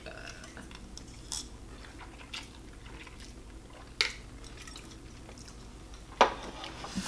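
Quiet chewing of a mouthful of Korean instant noodles, broken by about four sharp clicks spread through it.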